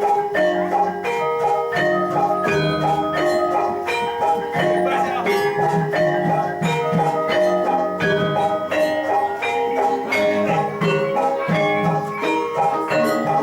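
Javanese gamelan playing jathilan accompaniment: bronze keyed metallophones struck over and over in a quick, steady, repeating pattern.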